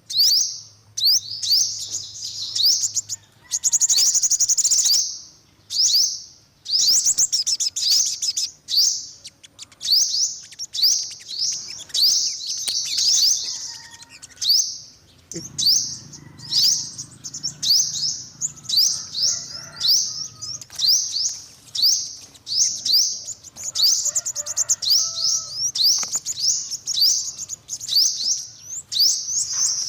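Yellow-bellied sunbird singing: rapid strings of high, thin chirps and trills, in bursts of one to two seconds separated by brief pauses.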